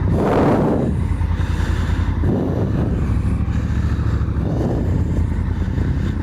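Honda Africa Twin's parallel-twin engine running steadily at low revs, with three short rushes of noise about two seconds apart.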